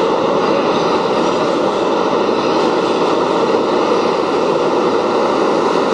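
R188 subway train on the 7 line running past: a loud, steady noise of steel wheels on the rails.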